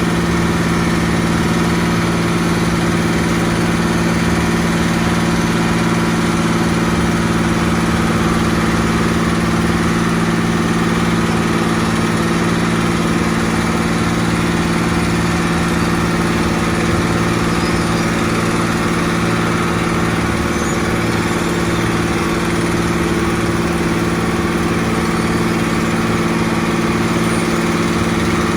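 Diesel engine of heavy road-construction machinery running steadily at constant speed, an even hum with no revving.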